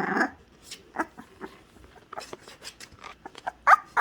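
Young bully puppy giving a few brief high squeaks and whimpers while being handled, with small clicks and rustles in between.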